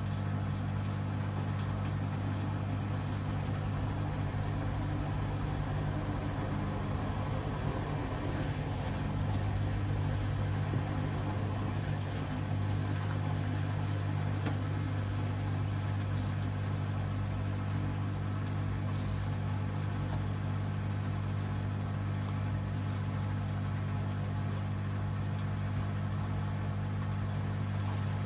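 Hoover DXOA610AHFN-80 washing machine running steadily with a deep, even hum.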